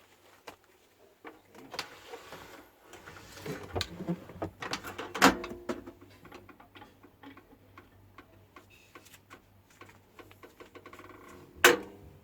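Scattered clicks and knocks of parts and tools being handled on a microwave oven, with two sharper knocks, one about five seconds in and one near the end. A low steady hum comes in about three seconds in.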